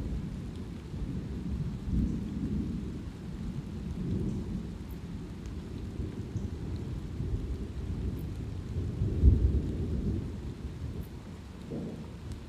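Thunder rumbling continuously with light rain falling. The rumble swells about two seconds in and peaks just past nine seconds, with faint scattered drop ticks above it.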